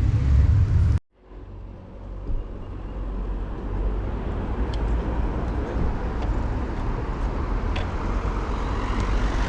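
City street traffic noise with a heavy low rumble; the sound cuts out abruptly about a second in and fades back up to a steady traffic hum.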